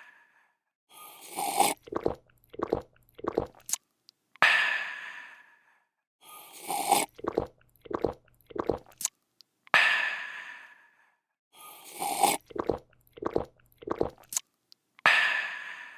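A person drinking: a slurp, four or five quick gulps, then a long breathy, refreshed 'aah' that fades out. The same sequence repeats as a loop about every five seconds, three times over.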